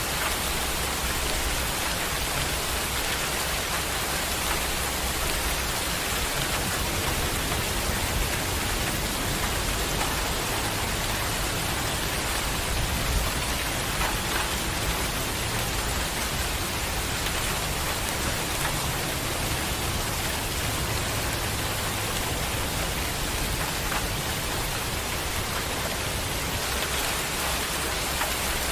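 Heavy rain pouring steadily: an even, continuous hiss with a few louder drop impacts.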